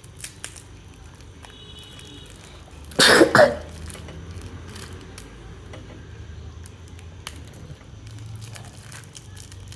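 A person coughs twice in quick succession, about three seconds in, over faint scattered light ticks.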